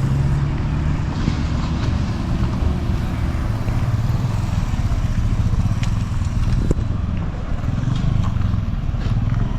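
Steady low rumble of a moving road vehicle's engine and road noise, with a few faint clicks.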